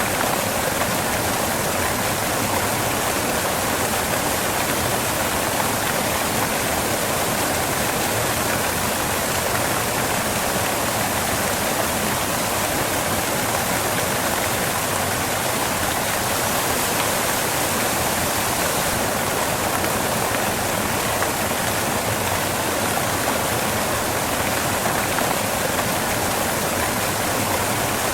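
Waterfall: steady, unbroken rush of falling water crashing onto rocks.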